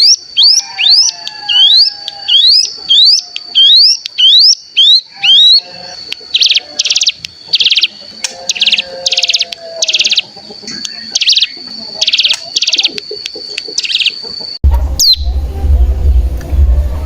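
Ciblek gunung (a prinia) singing: a quick series of rising whistled notes, about two a second, over a steady high tone. It then shifts into a string of buzzy, rattling 'bren' notes about once a second. About fourteen seconds in the song cuts off abruptly, leaving a steady low hum.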